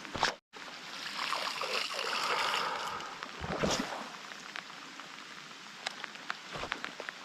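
Running, splashing water that swells for a couple of seconds and then eases off, with a sharp splash or knock in the middle and a few small clicks.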